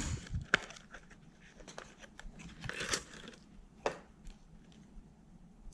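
Plastic lure packaging being handled: sharp clicks and taps at the start, a short crinkling rustle about three seconds in, and another tap about a second later, then faint ticks.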